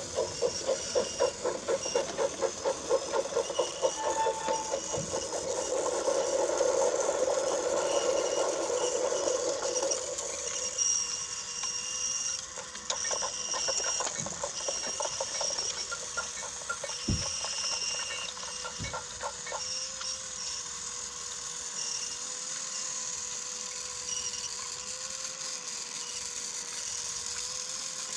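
Battery-powered Brio toy train running on wooden track: a small electric motor hums steadily, with fast rattling and clicking of the wheels and cars for the first ten seconds or so, then a smoother hum broken by a few scattered clicks and knocks.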